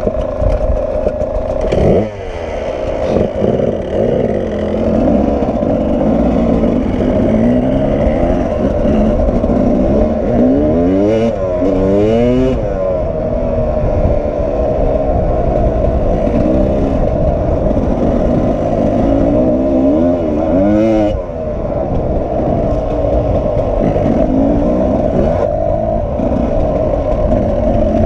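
Sherco 300 SE-R two-stroke enduro motorcycle engine running under riding load, its pitch climbing and falling again and again as the throttle opens and closes. Near the start and again about two-thirds of the way through it drops off briefly.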